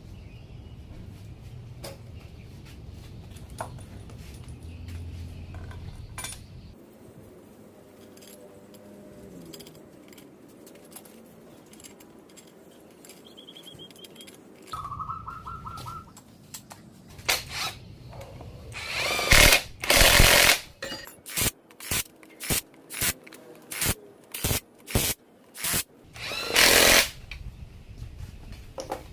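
A power tool run in bursts: one long run of over a second, then about eight quick triggers roughly half a second apart, then another long run near the end. Before that there is only a low steady hum.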